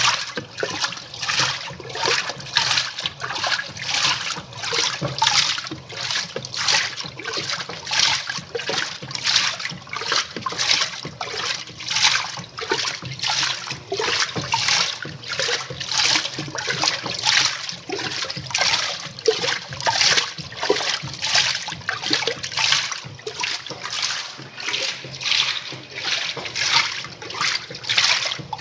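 Semi-automatic 'faz tudo' washing machine agitating. Water sloshes and splashes in a steady rhythm about twice a second over a low motor hum.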